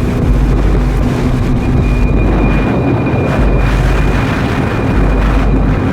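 Strong rear-flank downdraft wind and rain buffeting a storm-chase vehicle: a loud, continuous rush with deep rumbling surges about every second and a half.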